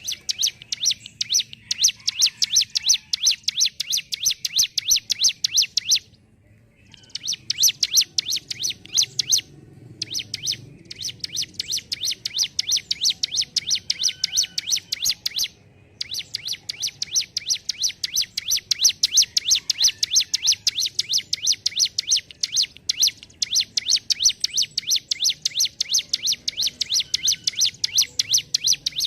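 Ciblek gunung (hill prinia) singing long runs of sharp, rapidly repeated chirps, several a second, the steady pumping delivery fanciers call 'ngentrok'. It pauses briefly about six seconds in and again near the middle.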